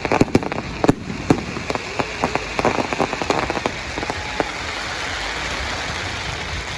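Fireworks going off: a rapid string of sharp bangs and crackles for about the first four seconds, then a steady hiss like rain.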